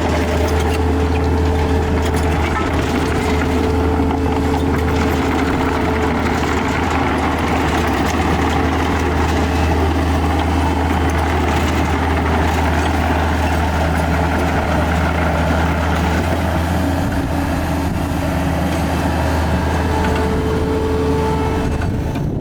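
A motor vehicle running steadily: a low, even drone with no revving.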